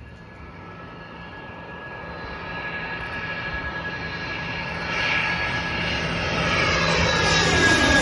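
An airplane's engines drawing closer, with a steady high whine over the rushing engine noise, getting steadily louder.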